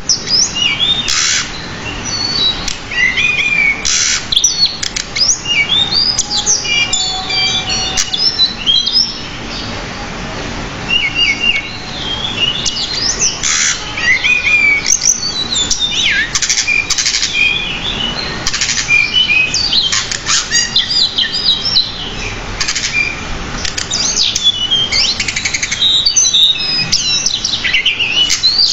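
Pied bushchat (decu) singing a long, unbroken run of quick chirps and whistled slides in varied phrases, with a short lull about ten seconds in.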